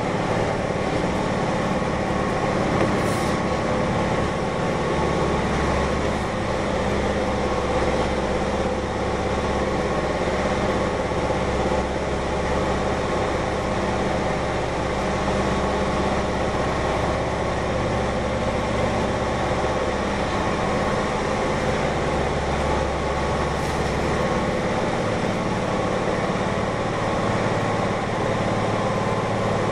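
Keihan 1000 series electric train running, heard from inside the passenger car: a steady rolling rumble with a constant hum from the air conditioning running hard. The low rumble eases about 25 seconds in.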